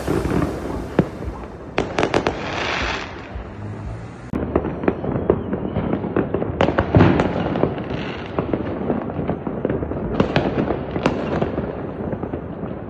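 New Year fireworks display: a rapid series of bangs and crackling bursts from aerial shells, the loudest bang about seven seconds in.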